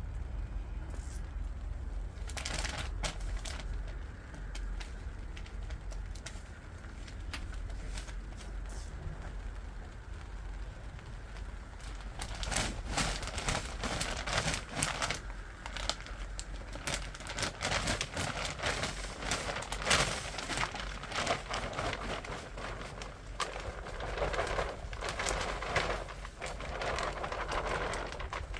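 Rustling, crackling handling noise from compost work in a vineyard, with scattered clicks and scrapes. It gets busier about twelve seconds in, over a steady low rumble.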